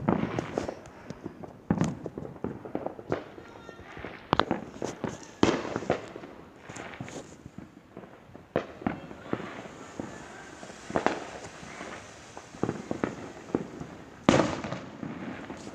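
Fireworks going off: an irregular run of bangs and pops of varying loudness, the loudest bang near the end.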